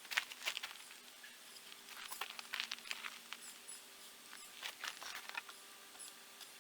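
Irregular light clicks, taps and scrapes of small objects being handled, coming in clusters, over a faint steady hum.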